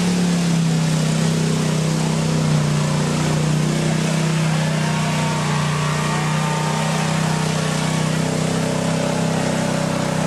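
Mud truck's engine running hard and held at steady revs, its pitch dipping slightly at the start and then staying level.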